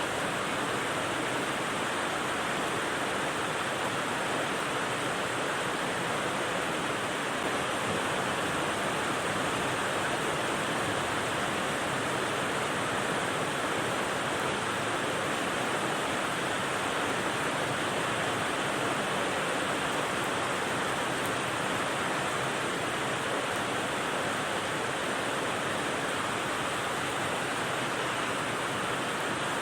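Steady rain-style white noise: an even, unchanging hiss with no separate drops, gusts or pauses.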